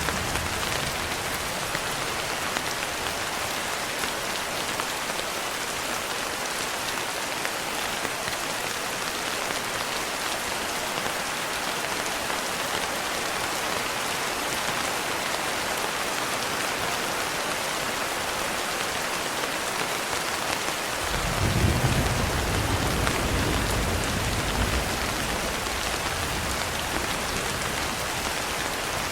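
Steady rain falling, an even hiss. About two-thirds of the way through, a low rumble of thunder rolls in for a few seconds and fades.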